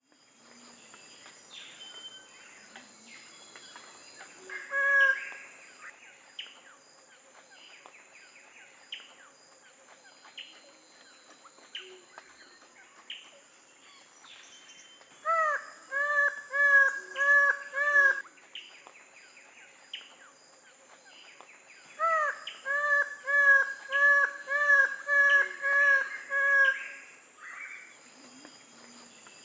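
Twelve-wired bird-of-paradise calling: one loud note, then two runs of loud, nasal, evenly repeated notes, about five in the first run and about eight in the second. A steady high-pitched whine and faint chirps run underneath.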